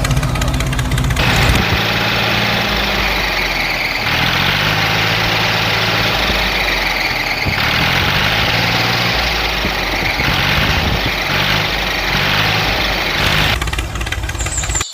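Tractor engine running, its low note wavering up and down, with abrupt changes in the sound several times as if pieced together from separate takes.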